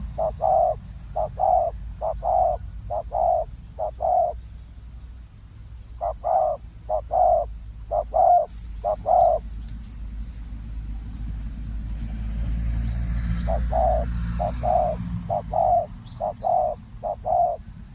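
Spotted doves cooing in three runs of short repeated notes, with gaps between the runs, over a steady low rumble.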